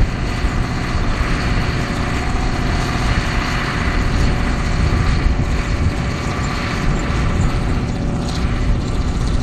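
Versatile 145 tractor's engine running steadily under load while pulling a cultivator.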